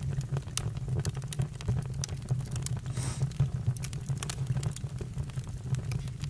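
Campfire burning: irregular wood crackles and pops over a steady low rumble of the flames, with a brief hiss about three seconds in.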